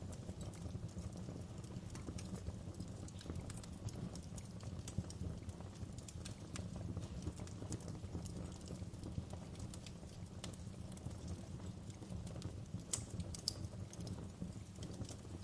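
Wood fire in a fireplace crackling: irregular sharp pops and snaps over a steady low rumble of flames, with a brief cluster of louder pops near the end.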